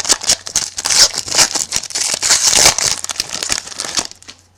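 Trading-card pack wrapper crinkling and tearing as it is handled, with a dense crackle that stops about four seconds in.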